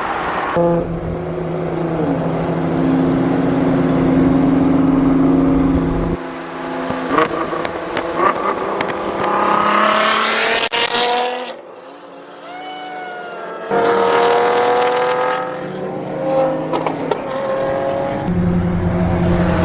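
Car engines running and revving: a steady drone, then twice a rising rev that climbs in pitch for a few seconds before cutting off abruptly.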